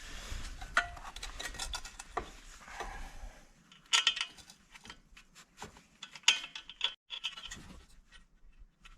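Scraping, rubbing and clicking of hand work on metal parts while the replacement engine is fitted to the concrete mixer, with a scraping hiss in the first half and a few sharp clicks, the loudest about four and six seconds in.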